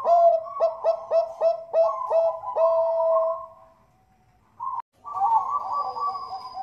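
Zebra dove (Thai perkutut) cooing: a quick run of about seven short notes, roughly two to three a second, ending in a longer held coo. After a brief pause with a single click, the cooing starts again.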